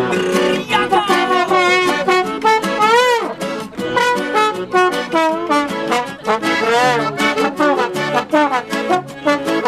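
Live band music: an instrumental passage with no singing, a brass-like melody sliding up and down in pitch over a steady beat.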